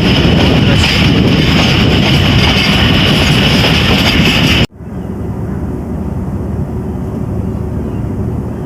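Train running on the track: loud rumble and rattle of the wheels on the rails, which gives way abruptly just past halfway to a quieter, steady low rumble.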